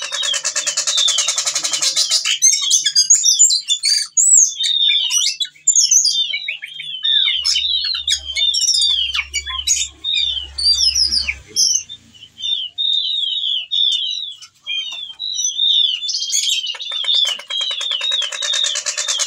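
Ciung batu (whistling thrush) singing hard, a fast run of varied chirps, whistles and mimicked phrases, with a dense buzzy rattle in the first two seconds that comes back near the end. It is the full 'gacor' song of a male in breeding condition, calling for a female.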